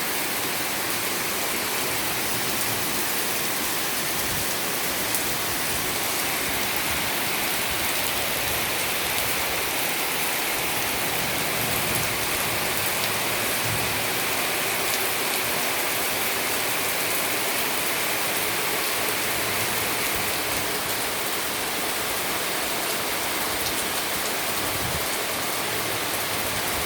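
Heavy tropical downpour: dense, steady rain pouring down and drumming on surfaces.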